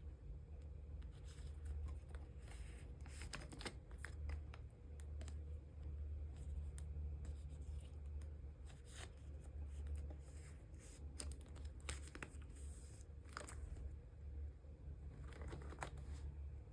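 Plastic photocard sleeves and binder sleeves being handled: irregular crinkling, rustling and light clicks of thin plastic, over a steady low hum.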